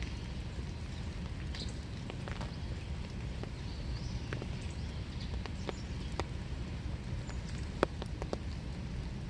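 Winter rain falling steadily, with scattered drops striking surfaces in irregular sharp ticks over a constant low rush.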